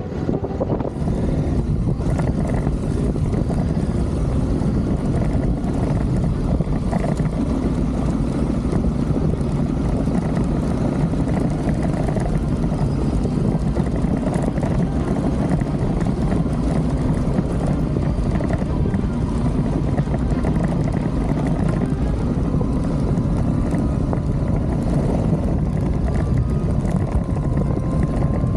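Adventure motorcycle on the move, its engine running steadily as a constant low rumble.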